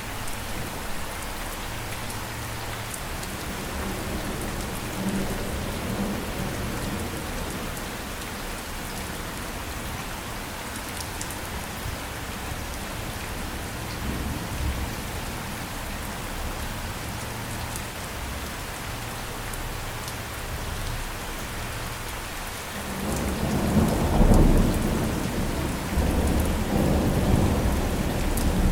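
Steady heavy rain hissing on surfaces, with a low rumble of thunder swelling near the end.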